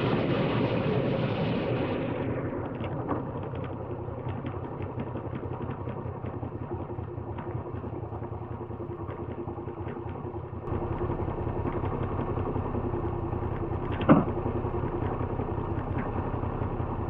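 Moto Guzzi V85 motorcycle's air-cooled V-twin running steadily under way, with wind rush that fades out about two seconds in. The engine gets louder about ten seconds in, and there is a brief sharp sound with a falling pitch a few seconds later.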